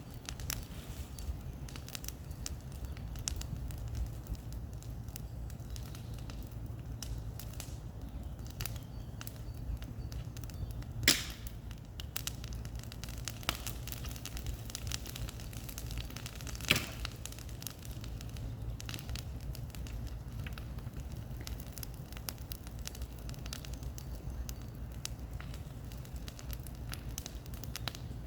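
Bonfire of cleared brush and wood burning with a steady low rumble and a constant scatter of small crackles and snaps; two louder pops stand out, one near the middle and one about two-thirds of the way through.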